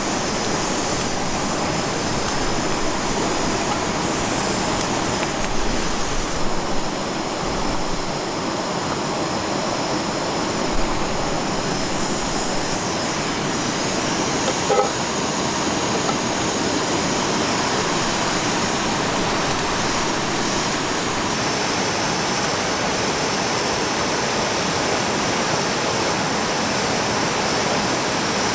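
Steady rushing of a river flowing past, an even hiss with no pauses, with a couple of faint knocks about a third and halfway through.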